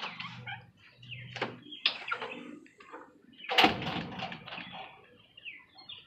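Birds chirping in short, repeated falling calls, with a loud noisy burst about three and a half seconds in that lasts about a second.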